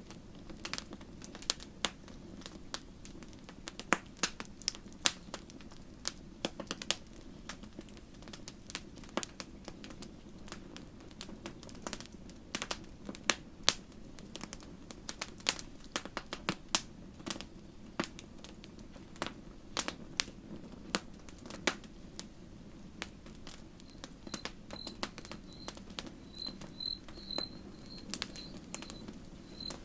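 Wood fire crackling, with irregular sharp pops and snaps over a steady low hiss of burning. Near the end a faint high chirp joins, repeating about twice a second.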